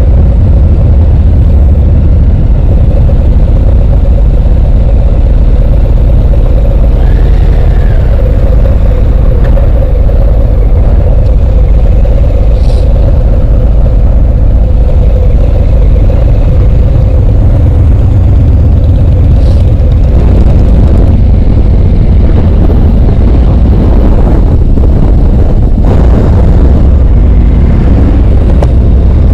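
Harley-Davidson motorcycle riding at steady speed: a loud, unbroken low rumble of engine and wind on the microphone.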